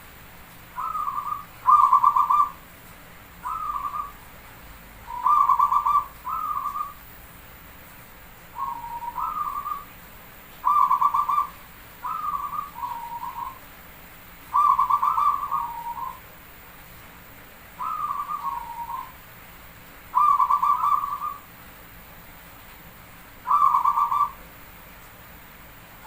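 Zebra dove (perkutut) cooing. Each phrase is a short rising note followed by a fast trill of beats at one pitch, and the phrases come in bursts every one to three seconds.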